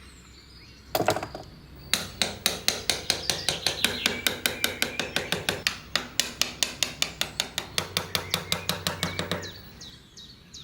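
Small hammer rapidly tapping, about five strikes a second, the kind used to drive small nails into wood. One knock comes about a second in, the fast run starts about a second later and stops shortly before the end.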